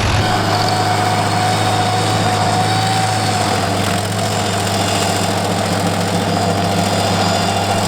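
Rayco RG55 stump grinder's engine running steadily under power, with a steady whine held over the low engine note.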